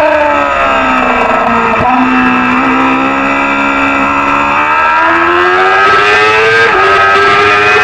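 Small-displacement racing motorcycle engine at high revs. Its pitch falls as the bike slows, with a brief blip about two seconds in, then climbs steadily from about five seconds in as it accelerates, with a short dip near the end at a gear change.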